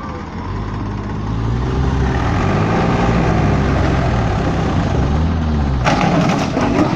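Tractor engine labouring under heavy load, its pitch rising and falling. About six seconds in, a burst of harsh clattering cuts in.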